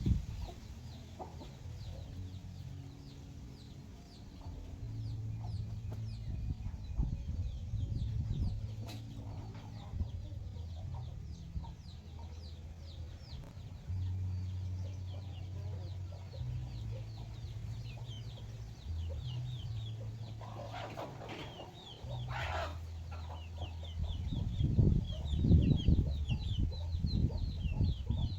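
Free-range chickens clucking, with chicks giving rapid high falling peeps throughout and a louder hen call about two-thirds of the way in. A low rumble underneath swells and is loudest near the end.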